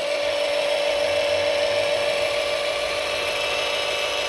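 An RC truck's electric drive motor and gearbox spin up and then run forward at a constant speed with a steady, even whine.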